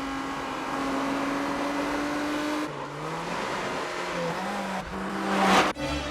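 Car engine held at high revs, its note climbing slowly, then dropping to a lower, shifting pitch after about two and a half seconds; a loud rushing burst of noise near the end.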